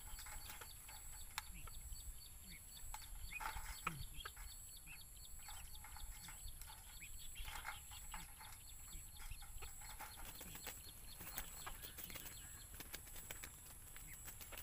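Faint, short bird calls and chirps, some sliding down in pitch, scattered through, over a steady high-pitched whine.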